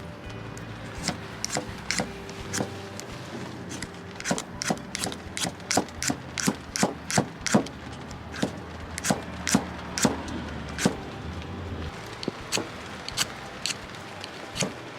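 Repeated sharp chopping knocks, irregular at roughly two a second, thinning out after about eleven seconds.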